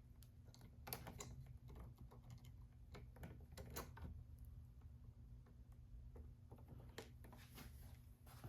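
Faint, scattered clicks and taps of electrical wires being handled and touched together, over a low steady hum.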